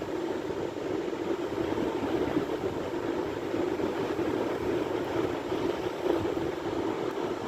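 Sea surf: a steady rushing wash of waves, with no single wave standing out.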